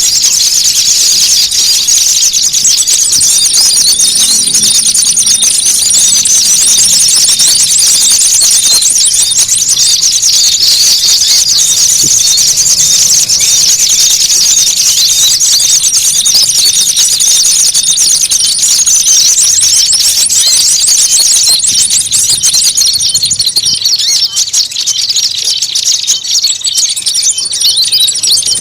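Bird-lure recording of small songbirds: a dense, loud chorus of rapid, agitated chattering and scolding calls, the kind of 'noisy fight' mobbing sound used to draw small birds in. A thin, high, steady whistle comes and goes several times over the chatter, and the calling thins slightly near the end.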